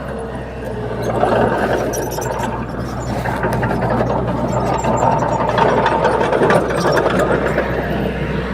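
Bulldozer diesel engine running steadily while working soil, with a low drone and scattered clicks and clanks over it.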